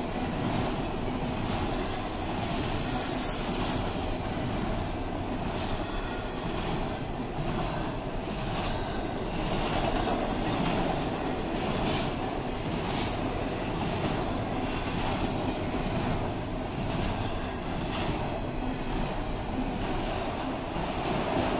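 Freight train cars rolling past at a grade crossing, double-stack intermodal well cars and then autorack cars. The wheels make a steady rumble on the rail, broken by irregular clicks as wheel sets cross rail joints.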